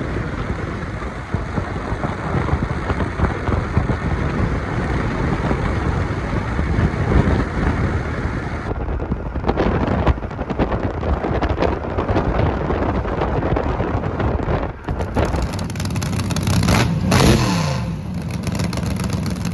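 Car engines running and revving, in several takes joined by sudden cuts, with one rev rising in pitch near the end.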